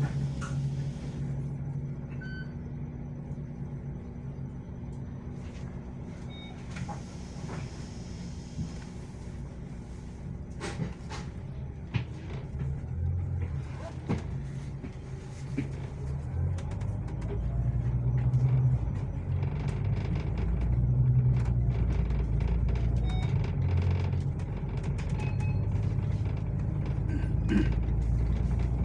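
Bus engine running with a steady low rumble, growing louder in the second half, with a few short high beeps.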